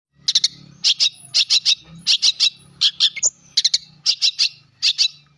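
A bird calling with short, sharp, high chirps, given in quick pairs and triplets about twice a second, over a faint low hum.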